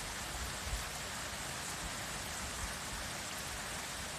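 Steady hiss of water, even and unbroken, with faint low rumbles underneath.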